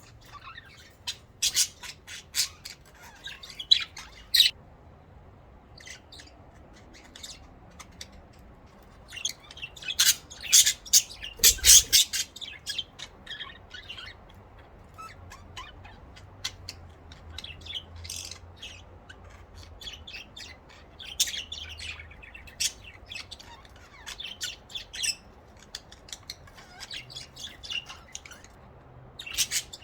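Pet budgerigars chirping and squawking, a run of short high calls that comes and goes, busiest about a third of the way in.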